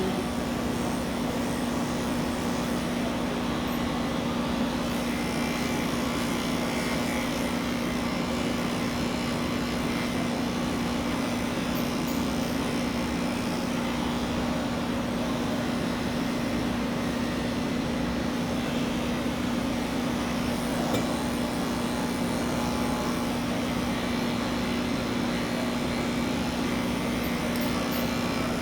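Electric pet clippers running with a steady buzz.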